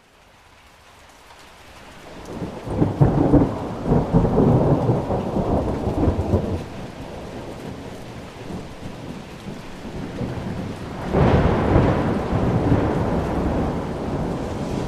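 Thunder rolling over steady rain: a long rumble that builds from about two seconds in, then a second, sharper peal about eleven seconds in that fades away slowly.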